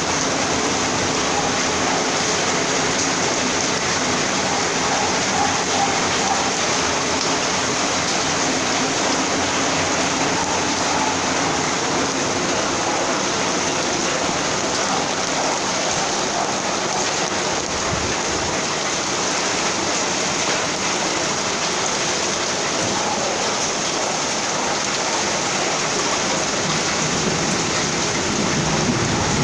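Heavy rain pouring steadily, an even hiss of rain hitting the ground.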